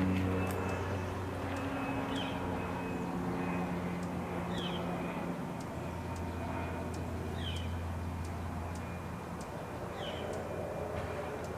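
A propeller airplane's engine drone that slowly fades away. Over it a bird repeats a short, high, descending chirp about every two and a half seconds.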